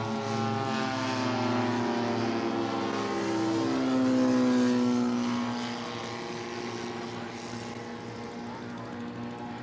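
Engine of a radio-controlled scale model airplane flying past. Its pitch drops as it goes by, loudest about four seconds in, then it goes on more quietly.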